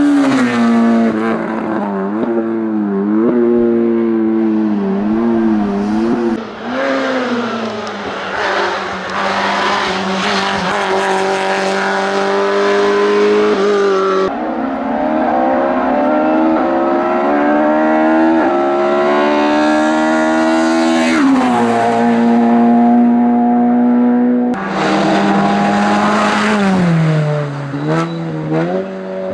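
Racing car engines at full throttle on a hillclimb, the note rising through the gears and dipping and blipping on downshifts into corners. The engine note changes abruptly twice, to a different car.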